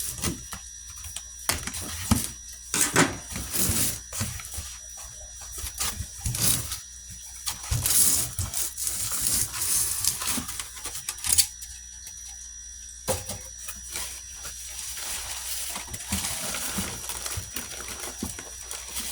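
A cardboard shipping box being opened and its packing handled: scattered knocks, clicks and rustling.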